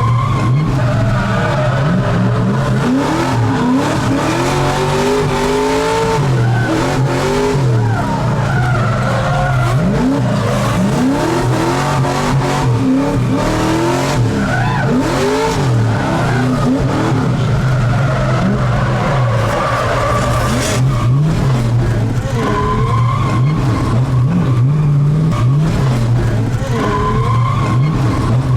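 LS3 V8 of a swapped Mazda Miata revving hard through a drift run, its pitch climbing and dropping again and again, with tyres skidding and squealing.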